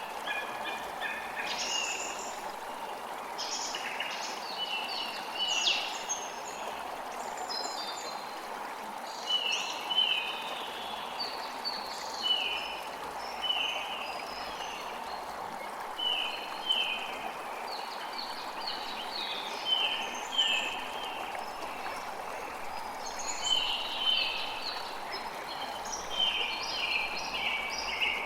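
Birds chirping in quick runs of short, repeated notes over a steady rush of running water.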